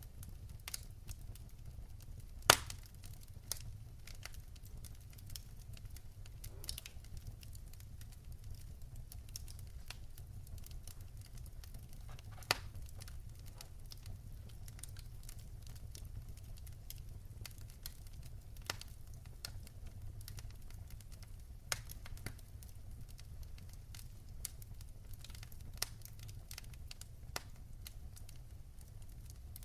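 Wood fire burning in a fireplace: a steady low background with scattered sharp crackles and pops, the loudest about two and a half seconds in.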